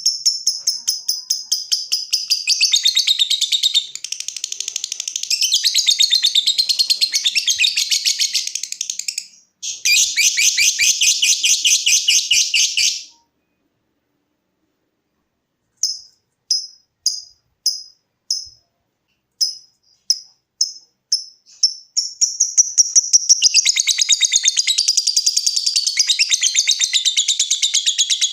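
Lovebird giving its long, fast, rattling chatter (ngekek), with a short break partway and then stopping about 13 seconds in. After a few seconds' pause it calls in separate short, sharp chirps (ngetik) about two a second, then goes back into the long fast chatter for the last several seconds.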